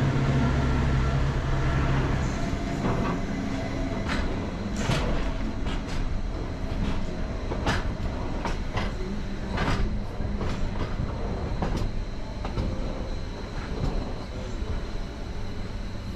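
Gornergrat Railway cogwheel train running downhill: a steady low motor hum eases off after about two seconds, then the running gear gives irregular clicks and knocks over the track above a steady rumble.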